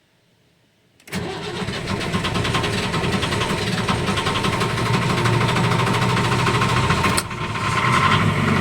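Diesel engine of a 1975 Hampton Safari motor boat, preheated, being cranked and started: after about a second of near silence it starts suddenly and turns over with a fast, even beat for about six seconds. It dips briefly near the end, then catches and keeps running.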